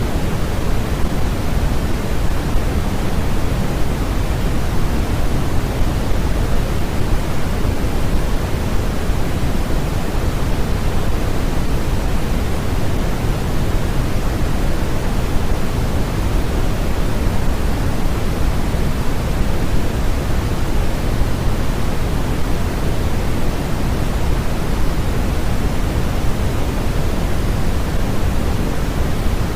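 Steady, fairly loud generated noise: an even, unchanging rushing hiss, heavier in the deep end than the high end, with no tones or events in it.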